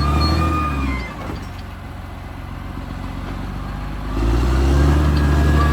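Caterpillar D6R XL bulldozer's diesel engine running under load, easing off to a lower, quieter speed about a second in, then coming back up to full power after about three seconds. A thin high squeal sounds at the start and again near the end.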